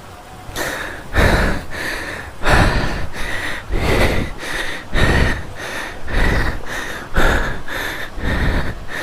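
Heavy panting close to the microphone from a person climbing steps, about two breaths a second.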